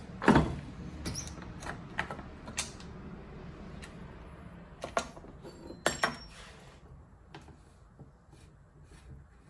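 Scattered clicks and knocks from a used chainsaw being handled as its fuel cap is opened to check the tank, the loudest just after the start and a pair around six seconds in.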